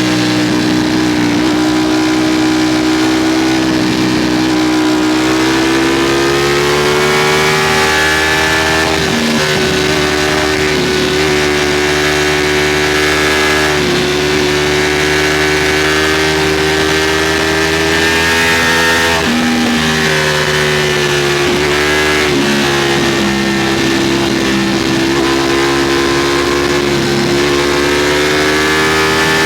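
Ducati Streetfighter V4's V4 engine heard from onboard, pulling hard at high revs with wind rushing past. The pitch climbs slowly at first, then dips briefly about four times before picking up again.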